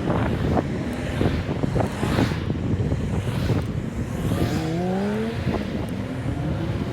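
Wind buffeting the microphone of a moving electric unicycle rider, with road noise. About four and a half seconds in, a motor tone rises in pitch for about a second.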